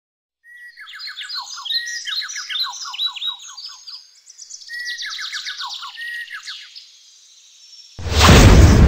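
Bird song: two phrases of rapid chirps and trills with quick downward-sweeping notes. About eight seconds in, a sudden loud rush of noise cuts in.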